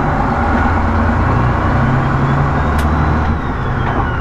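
Semi-truck diesel engine running, heard from inside the cab, its low note shifting in pitch as the truck drives, with a faint high whine rising and falling near the middle and a single click. The turbocharger is not boosting: the driver takes it for a failed turbo.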